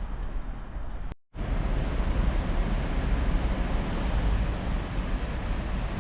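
Train running through the station, a steady noisy rumble heavy in the low end, with wind on the microphone. The sound cuts out completely for a moment about a second in, then returns louder, and a steady high whine joins about halfway through.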